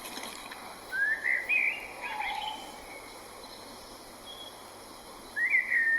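A songbird sings two short phrases of rising whistled notes, one about a second in and one near the end, over a steady faint hiss of woodland ambience.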